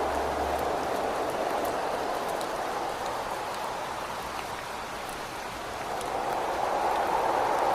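Steady rain and wind at a window, with fine drops ticking over a rushing hiss. The wind eases off midway and swells back up near the end.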